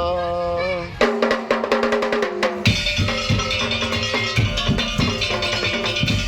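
Madurese tong-tong percussion band with saronen shawm playing. A held saronen note ends about a second in, a quick run of sharp percussion strikes follows, and from about two and a half seconds the full band comes in with deep drum beats.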